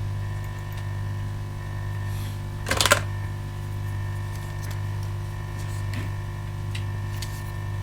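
Steady electrical mains hum from bench equipment, with a short clatter about three seconds in and a couple of faint ticks later.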